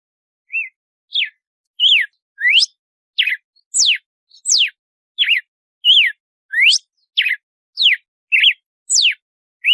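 Red-cowled cardinal (galo-de-campina) singing: a steady run of clear whistled notes, each a quick rising or falling slur, about three every two seconds, starting about half a second in.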